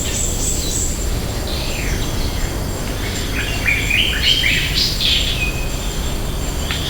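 Wild birds singing and calling, with a quick run of short, stepped chirping notes about halfway through, over a steady low rumble of background ambience.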